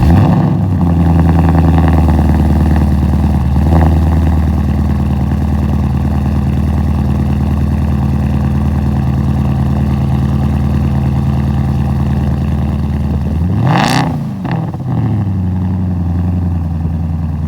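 Porsche Cayenne S exhaust with the mufflers deleted: the engine fires up cold and runs at a steady, loud high idle, with a small blip about four seconds in. Near the end there is one quick rev, rising and falling, before it settles back to idle.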